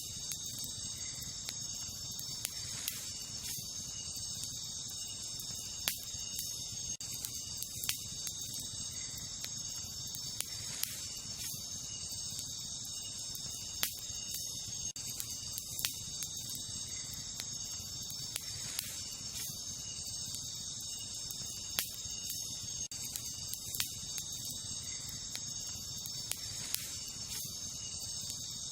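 Wood campfire crackling, with sharp pops every second or two over a low steady burn. Behind it, a steady chorus of crickets and other night insects.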